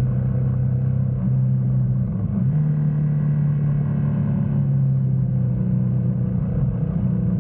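GS motorcycle engine running steadily under way, its pitch dipping briefly about two seconds in and then picking up again.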